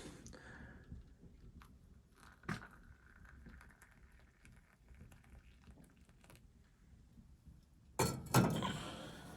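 Handling noises: a few light clicks and a knock about two and a half seconds in, then two loud clunks near the end.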